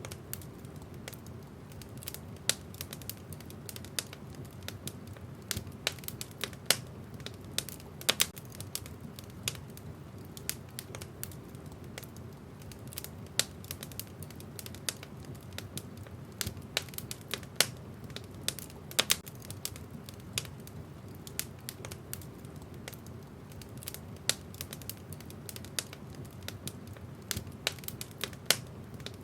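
Wood fire burning in a fireplace: a steady low rumble of flames with irregular crackles and sharp pops of burning logs, several a second, some much louder than the rest.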